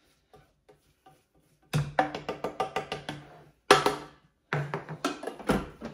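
A spatula scraping around the inside of a stainless steel Thermomix mixing bowl. It starts with faint scrapes, then from about two seconds in come quick runs of scraping knocks against the metal, with one sharp knock near the middle.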